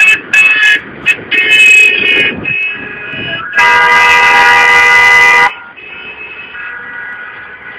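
Car horns honking: several short toots in the first couple of seconds, then one long blast of about two seconds, then fainter horns further off.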